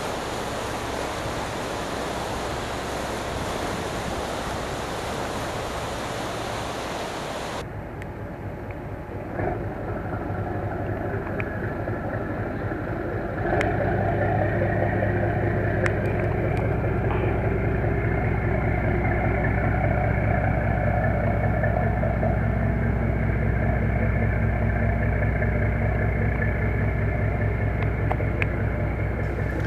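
A steady rushing noise like surf or wind cuts off abruptly after about eight seconds. An engine then runs steadily at idle with a low hum, becoming louder about thirteen seconds in.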